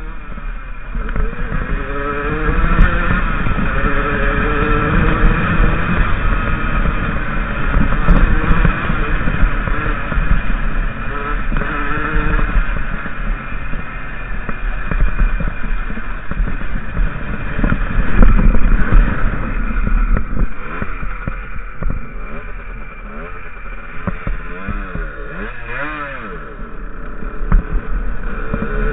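A 50cc enduro motorcycle's engine running under load on a rough dirt trail, its revs rising and falling as the rider works the throttle, with the strongest rev swings late on.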